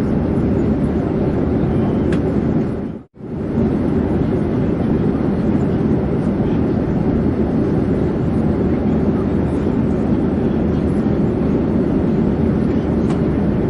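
Steady airplane noise in flight, a dense even rumble. About three seconds in it fades out to silence and straight back in, like a loop join.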